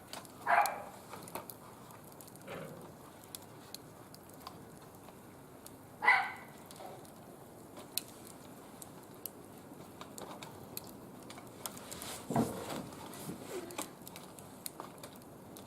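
A wood fire burning in a barbecue grill, crackling with many faint, sharp pops. Three short, loud calls stand out, about half a second, six seconds and twelve seconds in.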